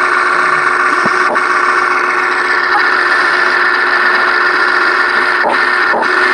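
Huina 1580 V5 radio-controlled excavator's electric motors whirring steadily as it operates, with a few faint clicks.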